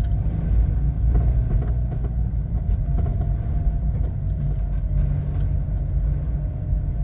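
Car cabin road rumble while driving over uneven pavement, with several irregular light knocks, 'tec, tec', from the front suspension or steering. The driver suspects a worn steering tie-rod end or stabilizer link, though he feels no vibration in the steering wheel.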